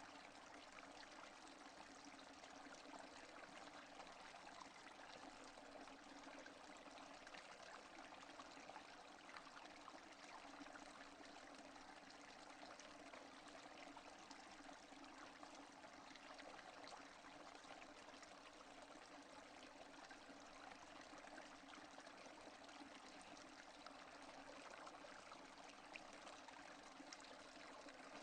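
Steady rain falling, a soft even hiss of many small drops with no thunder.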